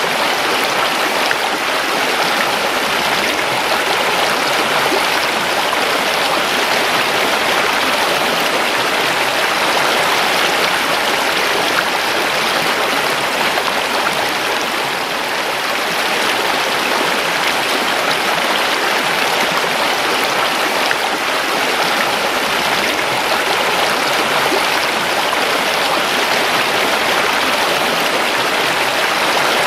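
River water rushing and splashing over stones, steadily.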